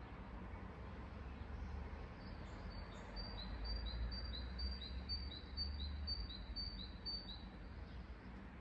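A songbird singing a quick run of high two-note phrases, each a higher note followed by a slightly lower one, about two or three phrases a second. The run starts about two and a half seconds in and stops about five seconds later, over a steady low rumble.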